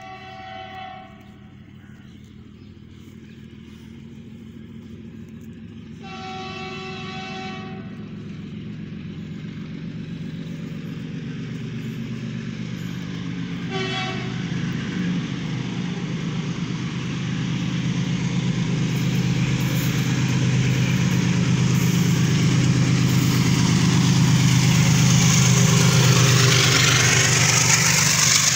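Goods train locomotive sounding its horn three times: a short blast at the start, a longer blast of about two seconds some six seconds in, and another short blast about fourteen seconds in. Meanwhile the approaching double-stack container train's rumble and wheel noise grow steadily louder as it runs past.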